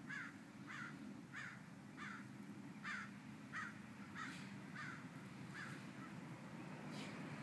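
A bird calling over and over, one short call about every two-thirds of a second, stopping about three-quarters of the way through, followed near the end by a single click. A low steady hum runs underneath.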